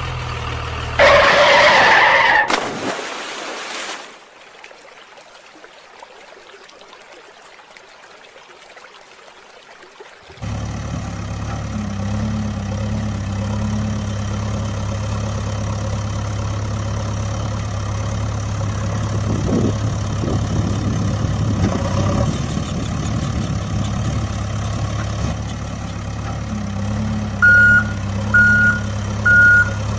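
A loud, noisy burst about a second in, then a quieter stretch. From about ten seconds in, a vehicle engine runs steadily at a low hum. Near the end come three short, high beeps.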